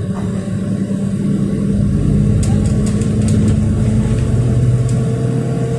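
City bus engine running as the bus drives along, heard from inside the passenger cabin, with a few light rattling clicks around the middle.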